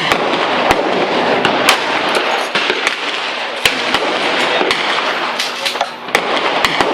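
Gunshots at a shooting range: about nine or ten sharp reports at uneven intervals, some louder and some fainter, with several in quick succession near the end, over a steady background rush.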